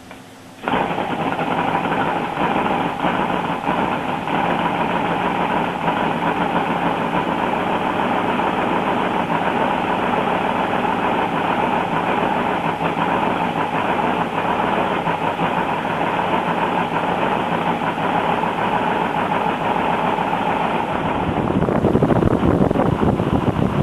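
Scale-model Kinner K5 five-cylinder radial engine catching suddenly and running steadily. It gets louder and deeper near the end.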